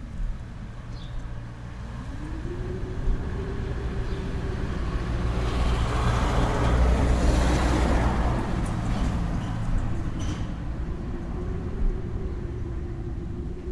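A road vehicle passing: a low rumble and tyre noise that swell to a peak about halfway through, then fade away.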